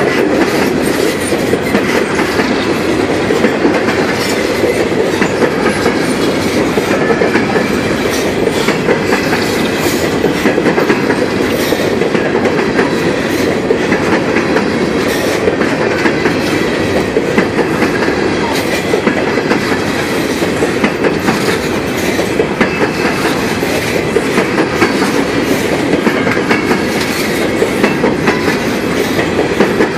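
Empty coal cars of a freight train rolling past close by: a steady, loud rumble of steel wheels on rail, with the clickety-clack of wheels over rail joints.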